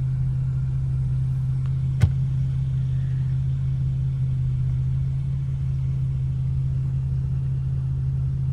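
Car engine running steadily at an even, low hum, with one sharp click about two seconds in.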